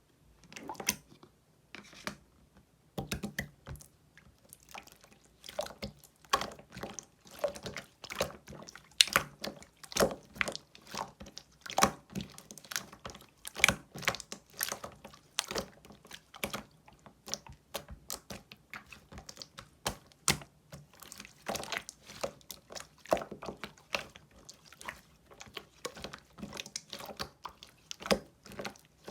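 Clear slime being squished and pressed by hand, making many short, wet sticky clicks and pops, several a second and irregular.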